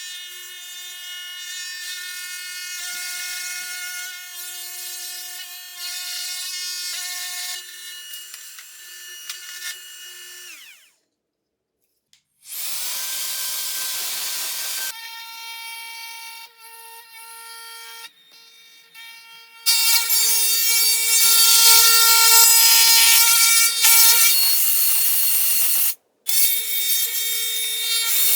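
Compact trim router running at high speed with a steady high whine and cutting into wood with a rushing hiss. The sound comes in separate stretches, stopping abruptly about eleven seconds in and briefly again near the end. The loudest cutting comes in the last third.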